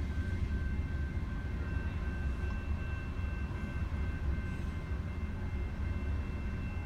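Long coal freight train rolling past at a level crossing: a steady low rumble of wheels on rail, with faint steady high-pitched tones above it.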